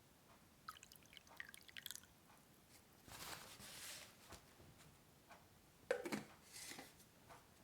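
Quiet drawing sounds at a desk: a run of small clicks, then a soft scratchy stroke lasting about a second, then a light knock near the end.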